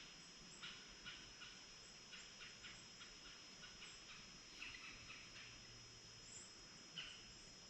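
Faint, scattered short chirps from a flock of small birds flitting through the trees, a few calls every second or so.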